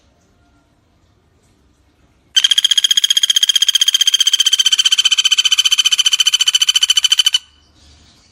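Common flameback woodpecker (pelatuk bawang) giving one long, rapid, even rattling trill of about a dozen notes a second, starting a couple of seconds in and cutting off about five seconds later.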